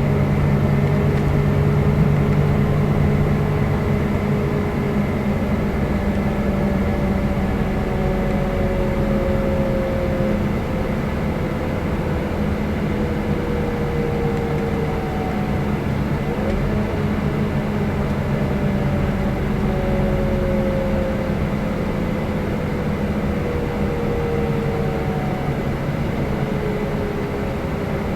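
Scania K320 IB coach's engine and drivetrain running steadily under way, with a faint whine that falls slowly in pitch and comes back every few seconds.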